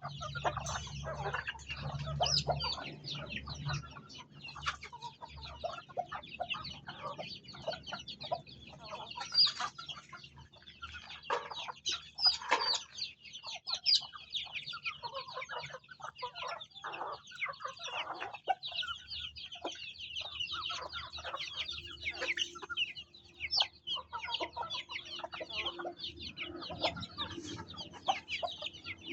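A flock of chickens clucking, over a dense chorus of high, rapid chick peeps; many short calls overlap throughout.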